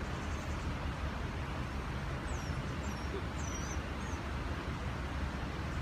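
A few quick, high bird chirps, about two to four seconds in, over a steady low rumble.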